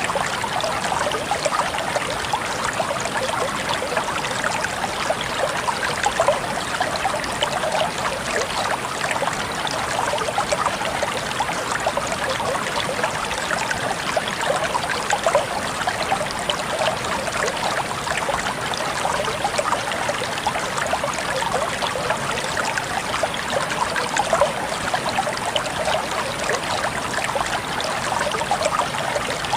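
Shallow stream water flowing and trickling steadily, a busy babble of small splashes with no pauses.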